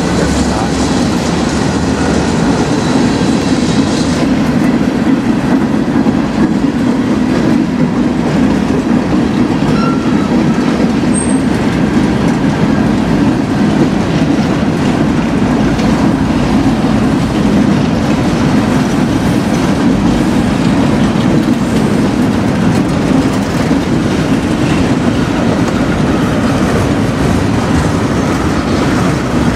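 Freight cars rolling past at close range: a loud, steady rumble of steel wheels on the rails.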